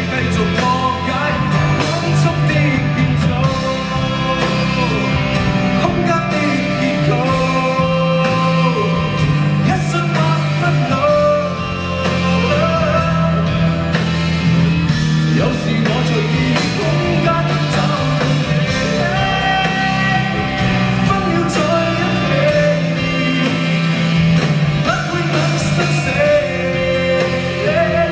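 Live band playing a Cantopop rock ballad at full level, with drums, bass and guitars under a melody line, steady and without a break.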